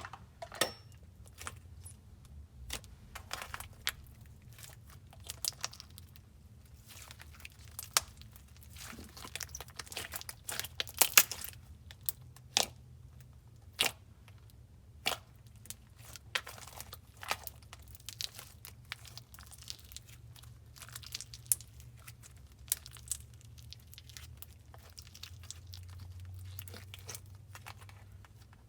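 Slime being kneaded, stretched and pressed by hand, giving sharp sticky clicks and crackling pops at irregular intervals, busiest about ten seconds in.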